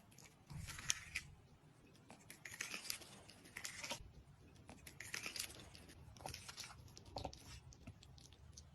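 Cat gnawing at corn: rasping, crunching bites that come in short bursts every second or so, with a few sharp clicks.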